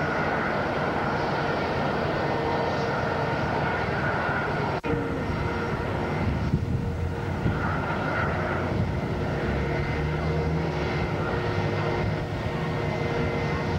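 Airbus A320's jet engines running steadily, a continuous rush with a steady whine over it, broken by a momentary dropout about five seconds in.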